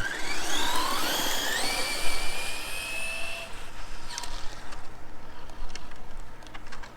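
Losi 22S '69 Camaro RC drag car making a full-throttle launch: the brushless electric motor and drivetrain whine rises in pitch in steps as the car accelerates, holds a high steady whine, then cuts off about three and a half seconds in at the end of the pass.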